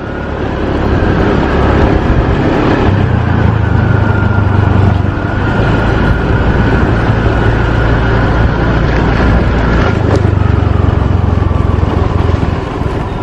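Motorbike engine running steadily while being ridden, with heavy low-pitched road and wind noise.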